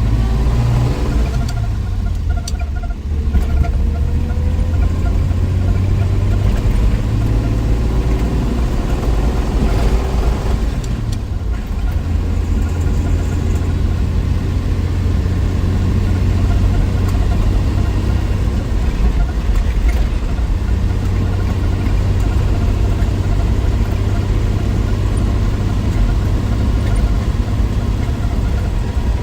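A 1963 Willys Wagon's 230 Tornado overhead-cam inline-six engine running as the wagon is driven. Its pitch rises in the opening seconds, dips briefly about two to three seconds in, and falls away around ten seconds in. After that it runs at a steady low note.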